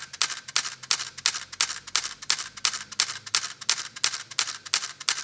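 Camera shutter clicking in a rapid, even series, about three to four clicks a second.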